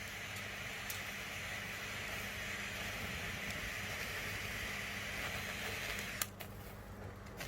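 Steady hiss of a gas flame torch as it lights indoor firework tablets, cutting off with a click about six seconds in.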